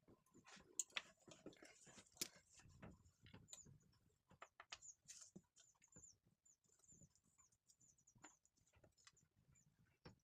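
Near silence with faint, scattered small clicks and rustling.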